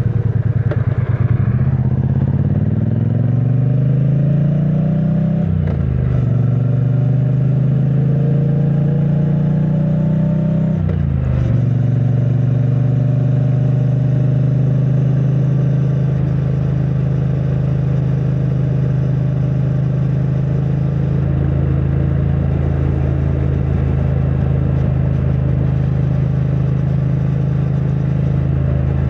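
2022 Triumph Bonneville T100's 900 cc parallel-twin engine through its stock exhaust, accelerating through the gears: the pitch rises, drops at an upshift about five seconds in, rises again, drops at a second upshift about eleven seconds in, then holds steady at cruising speed.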